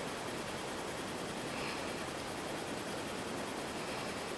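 Steady, even background hiss with no distinct sound; the small screw being driven in makes no clear noise.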